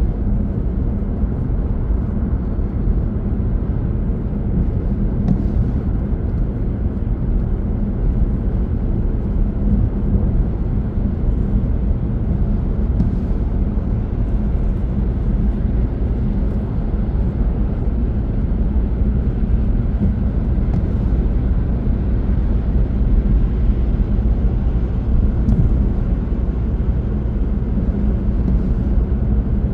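A car driving along the road, with a steady low rumble of tyre and engine noise that holds even throughout.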